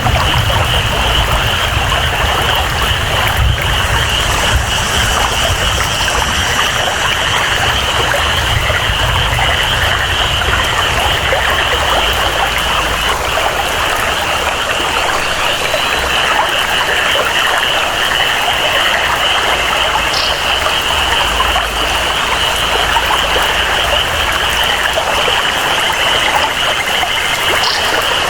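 Rainforest ambience: steady rain and flowing water with a continuous high-pitched chorus of frogs and insects. A low rumble underneath dies away about halfway through.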